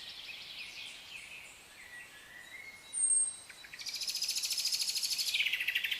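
Songbirds singing: scattered high chirps, then a single short, high falling whistle about halfway through, followed by a loud, rapid trill lasting about two seconds that steps down in pitch near the end.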